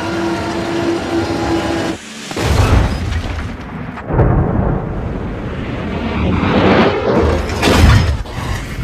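Dramatized sound of an airliner crashing into a mountain: a steady drone breaks off about two seconds in, then deep rumbling booms and crashes come in three heavy surges.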